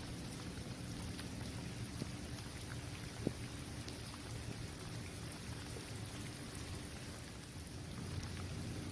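Steady rain falling on an outdoor basketball court, with scattered single drops ticking and one sharper tap about three seconds in, over a low steady rumble.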